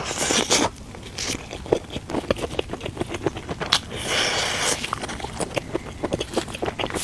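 Close-up eating sounds: biting and chewing with many small wet clicks, and two longer noisy stretches, one at the start and one about four seconds in.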